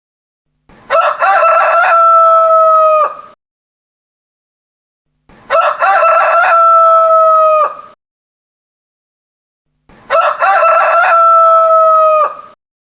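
A rooster crowing three times, about four and a half seconds apart. Each crow opens with a few short broken notes, then holds one long note that drops off at the end.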